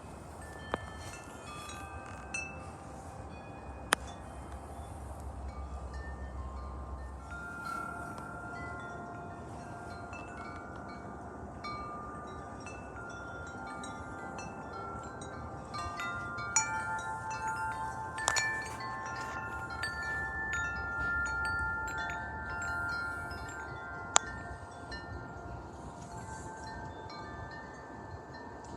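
Wind chimes ringing in gusty wind, many metallic tones overlapping, growing busier and louder from about halfway through, with a few sharp clinks. A low wind rumble sits underneath in the first few seconds.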